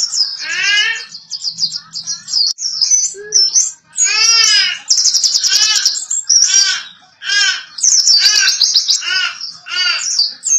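A small songbird singing a fast, high-pitched twittering song without a break. A lower arched call repeats about once a second through the second half.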